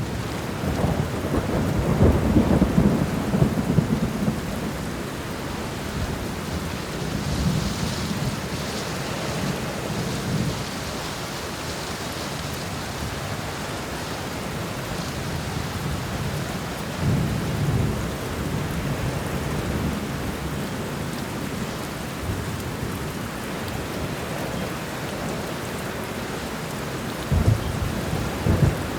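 Steady heavy rain with thunder rumbling, the thunder swelling in the first few seconds, again about halfway through and once more near the end.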